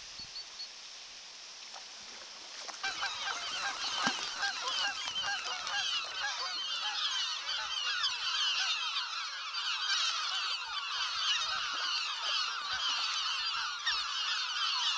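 A large flock of birds calling, many short overlapping honking calls in a dense chatter that starts about three seconds in and keeps up.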